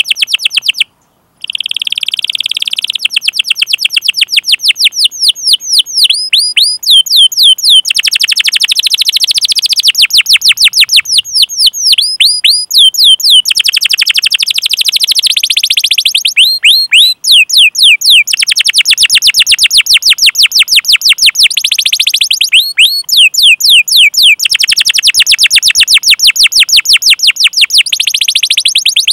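Domestic canary singing loudly: long runs of rapid, repeated downward-sweeping 'cuit' notes and fast rolling trills, with a brief pause about a second in.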